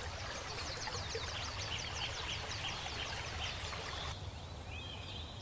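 Riverside nature ambience: a steady rushing, water-like hiss with a fast run of short, high, falling chirps, about five a second. About four seconds in the hiss and chirps drop away, leaving a short whistled call over a low rumble.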